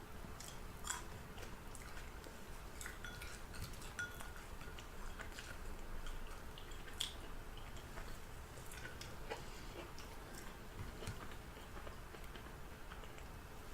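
Close-up chewing and mouth sounds of someone eating fried chicken: scattered small wet clicks and crackles, the sharpest about seven seconds in, with now and then a light tap that may be cutlery on a dish.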